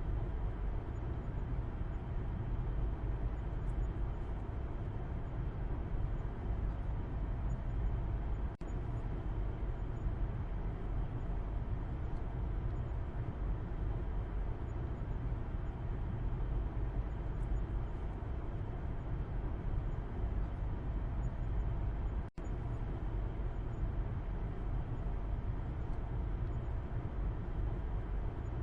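Car interior road noise heard from the back seat: a steady, low rumble. It drops out for a split second twice, about nine and twenty-two seconds in.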